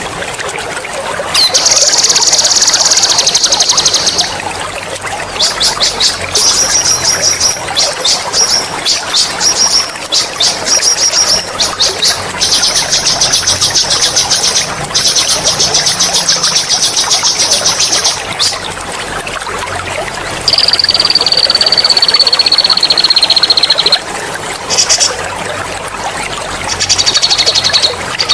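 A songbird singing rapid, high-pitched rolling trills in bouts of one to four seconds, one long trill sliding slowly downward, over the steady sound of trickling water.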